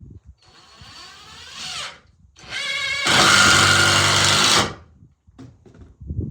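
Power drill driving 3-inch screws into 2x4 lumber in two runs: a shorter, quieter one in the first two seconds, then a longer, louder one from about two and a half seconds in. A few knocks follow near the end.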